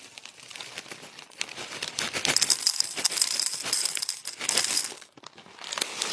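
Small hard pieces rattling and clicking in a container, likely something being put into a bowl. The rattling runs dense for about five seconds, with a faint high steady tone through the middle, then stops briefly and starts again near the end.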